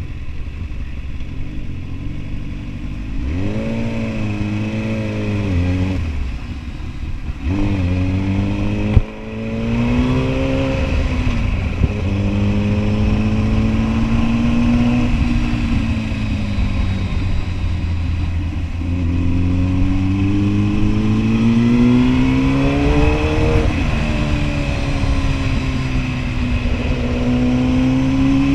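Kawasaki Ninja ZX-10R's inline-four engine pulling through the gears while riding, its pitch rising under throttle and dropping at each shift or roll-off, several times over. There is a single sharp click about nine seconds in.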